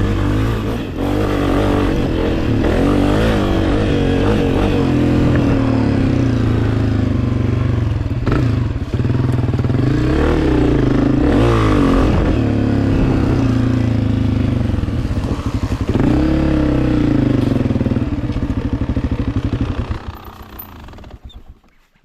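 Two-stroke dirt bike engine under way, revving up and down, then falling silent about twenty seconds in.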